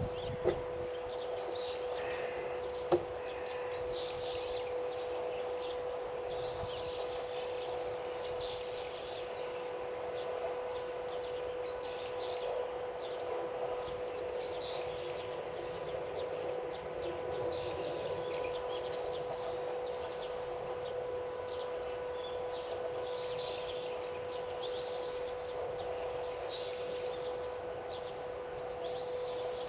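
Small birds chirping over and over in short calls, over a steady low hum. Two sharp clicks sound in the first few seconds.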